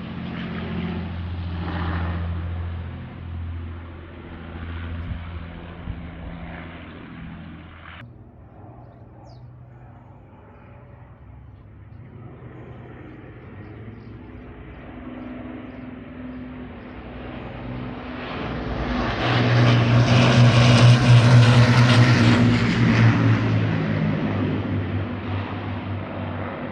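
Avro Lancaster's four Rolls-Royce Merlin piston engines droning, with a sudden drop about a third of the way in. The drone then builds to a loud peak as the bomber passes and fades away near the end.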